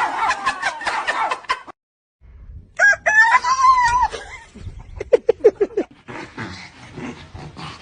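A rooster crows once, a loud held call about three seconds in, followed by a quick run of short clucks.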